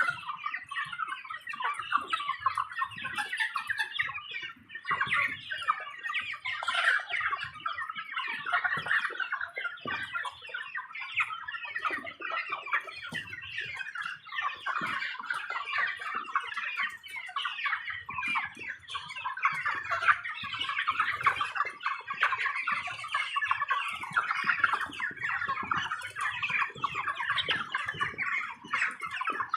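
A large flock of 38-day-old broiler chickens clucking and calling all at once, a dense unbroken chatter of many overlapping birds.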